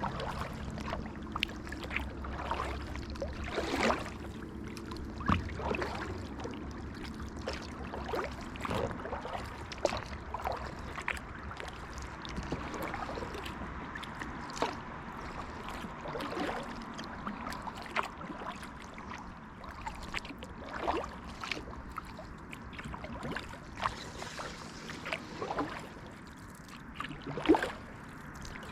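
Kayak paddling on calm water: the paddle blades dip and splash irregularly and water drips and trickles off them, with the sharpest splash near the end. A low steady hum runs under the first half and then fades away.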